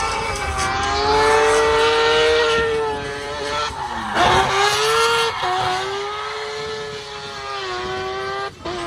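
Drift car's engine held at high revs through a slide, its pitch wavering up and down with the throttle. The pitch drops sharply and climbs back about four seconds in, and the sound cuts out briefly near the end.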